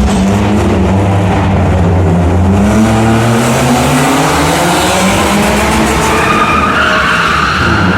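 Car engine revving up and down while the tyres skid through a drift. About halfway through, tyre hiss swells, and a higher tyre squeal comes in near the end.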